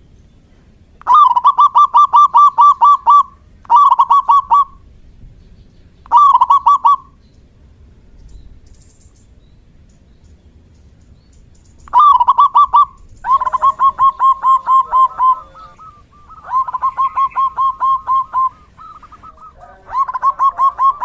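Zebra dove (perkutut) cooing: bursts of rapid staccato notes on one steady pitch, several seconds apart at first, then coming almost back to back in the second half. Near the end a second, lower call overlaps the first.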